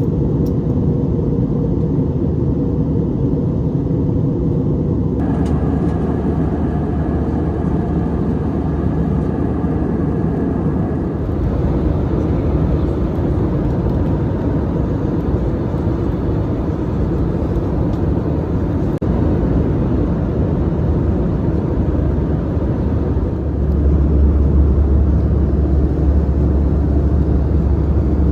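Steady cabin noise of an Airbus A320-200 in flight: engine and airflow rumble. It shifts abruptly in tone a few times, and a deeper hum grows stronger near the end.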